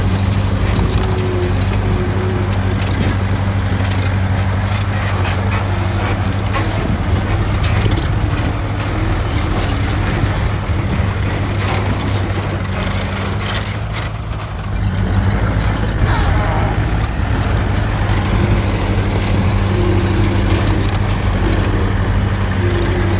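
Heavy earthmoving machine's diesel engine running steadily at a constant low hum, with metallic clinking and clanking over it. The engine eases briefly about fourteen seconds in, then picks up again.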